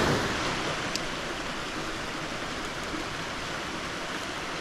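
Small moorland stream running over rocks: a steady, even rush of water.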